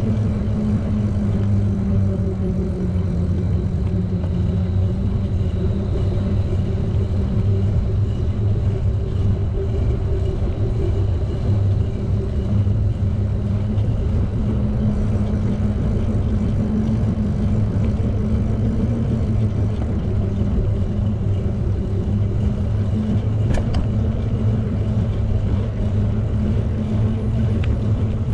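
Steady low rumble of wind and tyre noise from a bicycle being ridden, with a single brief click about three-quarters of the way through.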